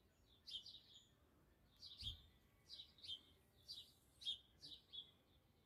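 Small birds chirping: a steady series of short, high, downward-slurred chirps, singly and in quick twos and threes, several each second.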